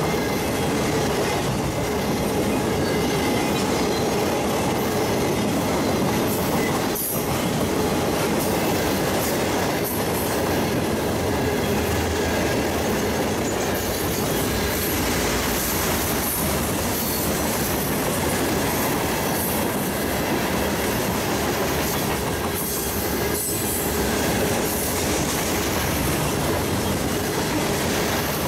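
Train cars rolling past on steel wheels: a steady loud rumble and rattle with a few clicks, and a faint wheel squeal running under it.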